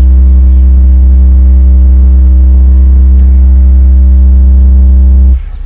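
Car audio subwoofers playing a single very loud bass tone, an SPL-competition burp, held steady at one pitch and cutting off suddenly near the end.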